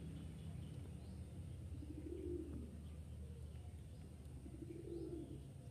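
Low cooing calls of a bird, twice, about three seconds apart, over a faint steady low hum.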